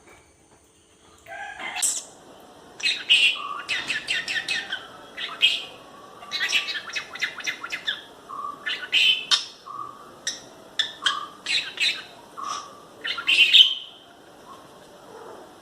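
Lovebird chattering: quick runs of sharp, high chirps and rapid clicking trills, starting about a second and a half in and stopping shortly before the end.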